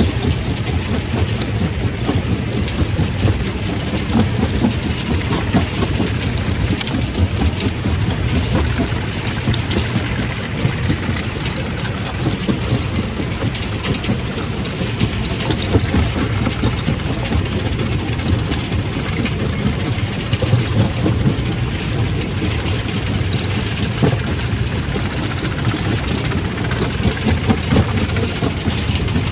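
Quarry primary rock crusher running: a steady heavy-machine drone with continual clatter and crunching of stone.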